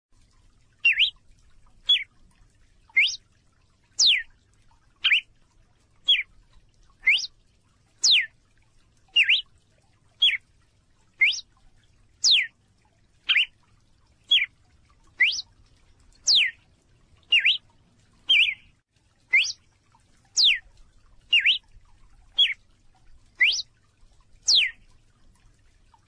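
A small songbird repeating a single short, sharp call about once a second, each call a quick sweep in pitch.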